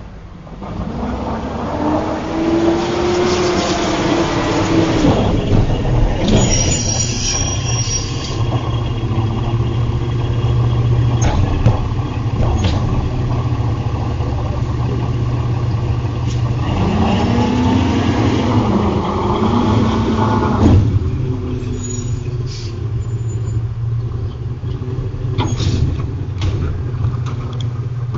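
Peterbilt garbage truck with a Leach 2R-III rear loader body running, its engine revving up twice for several seconds with a whine that rises and falls, typical of the hydraulic packer running its compaction cycle. Between the cycles the engine idles steadily, with a short hiss and a few metal clanks.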